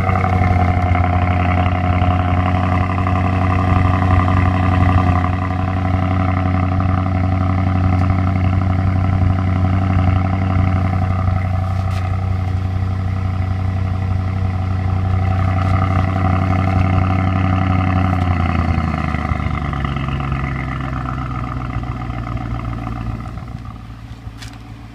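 BMW 650's exhaust running at a cold-weather fast idle just after starting. About three-quarters of the way through, the idle steps down to a lower, slower note, and the sound fades near the end.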